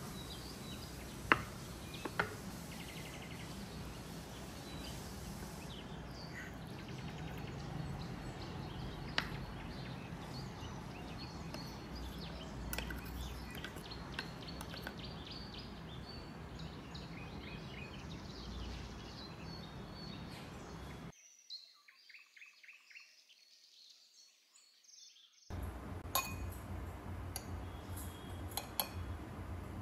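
Birds chirping over a steady background hiss, with a few sharp clinks.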